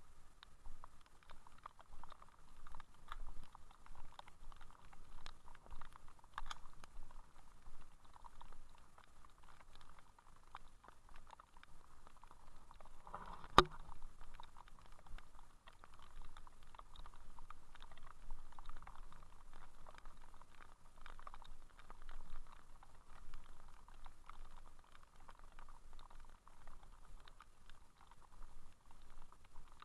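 Rain pattering on the camera's case, a steady spatter of many small drop ticks. About thirteen and a half seconds in there is a single much louder sharp knock.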